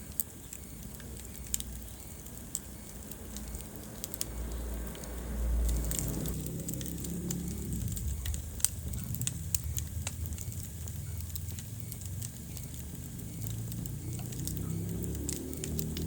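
Wood fire burning in a fireplace: irregular sharp crackles and pops over a low rumble of flames, the rumble swelling for a moment about five seconds in.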